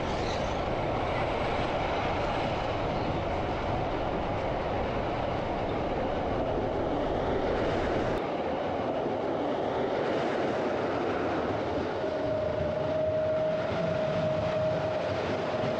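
Glacier Express passenger train running, heard from inside the carriage: a steady rolling noise of wheels on the track. The deep rumble drops away about eight seconds in, and a thin steady whine comes in a few seconds later.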